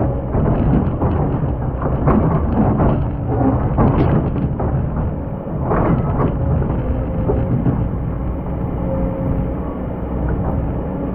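Excavator's diesel engine running under load, with repeated scraping and knocking of the steel bucket as it digs into hard, compacted old sand during the first six or seven seconds. A faint steady whine sits over the engine rumble later on.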